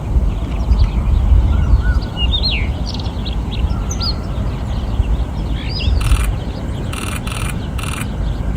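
A rufous-tailed robin singing in short, varied whistled phrases of rising and falling notes. From about six seconds in, several rapid bursts of camera shutter clicks come over the song, all over a steady low rumble.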